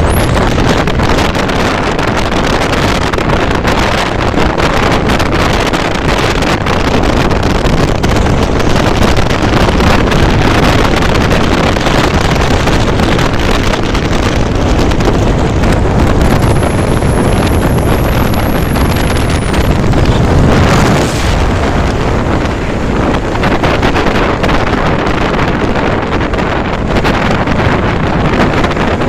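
Loud, steady rush of wind buffeting the microphone of a moving motorcycle, the bike's running noise buried under it. About two-thirds of the way through, a thin high tone sounds for a few seconds.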